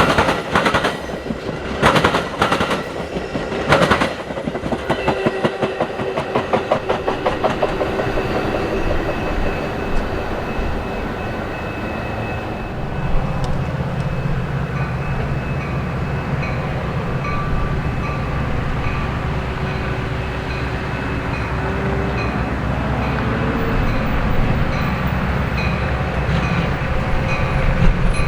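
A train rolling past, its wheels clacking loudly over the rail joints at first, then in a fast regular clatter. About halfway through the clatter gives way to a steady low rumble.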